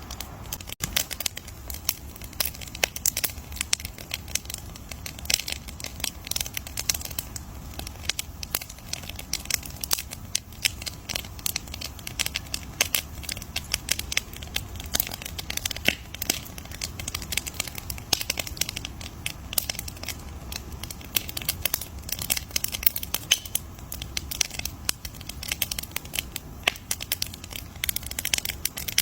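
Wood fire crackling steadily, with dense, irregular sharp pops and snaps over a low steady rumble of burning.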